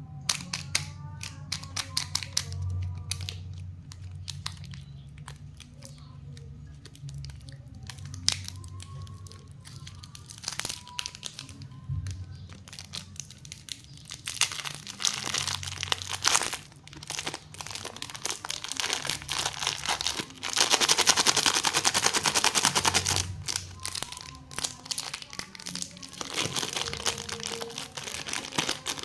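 Plastic lollipop wrappers and packaging crinkling and rustling as they are handled, with many sharp little clicks and taps. The crinkling builds to a dense, continuous stretch about two-thirds of the way through, the loudest part, then eases back to scattered crackles.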